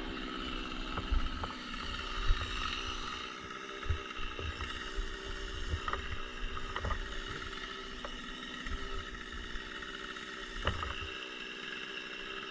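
An engine running steadily with an even drone, with a few faint knocks.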